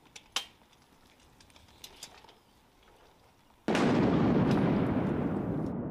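A sudden loud clap of thunder about two-thirds of the way in, rumbling on and slowly fading. Before it there are only a few faint clicks.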